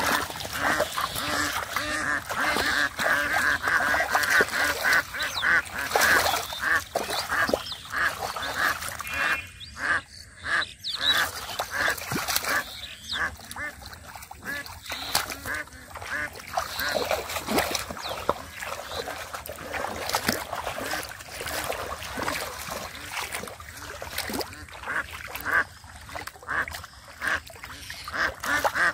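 A flock of ducks quacking, with many short calls overlapping continuously.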